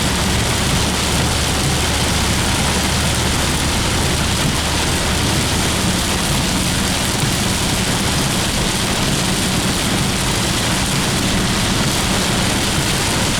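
Torrential rain pounding steadily on a moving car, heard from inside the cabin, with the car's engine and tyre noise running low underneath.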